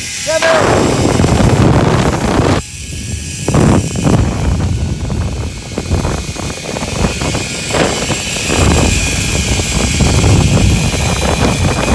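Wind buffeting the microphone on a zipline ride: a loud, fluctuating rumble that dips briefly about a third of the way in, with a short pitched voice-like call near the start.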